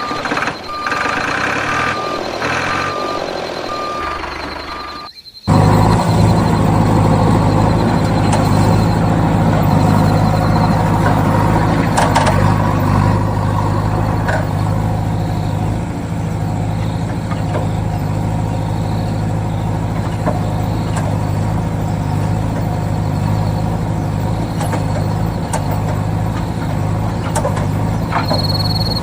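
Mini model vehicle: short evenly spaced beeps like a reversing alarm for about five seconds, then a steady low engine-like drone.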